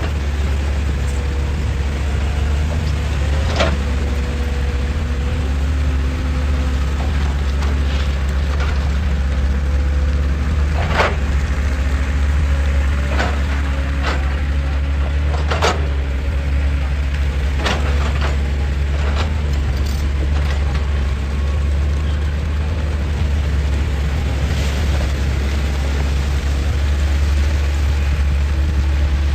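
Excavator's diesel engine running steadily with a deep drone and a faint wavering whine, with several sharp knocks and clanks scattered through the middle of the stretch as it works on rock.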